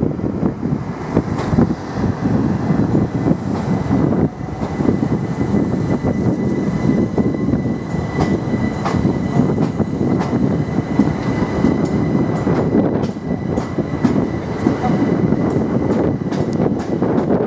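Electric multiple unit passing at speed: steady rolling rumble of wheels on rail with scattered clicks and knocks as the bogies cross the rail joints, over a faint steady high whine.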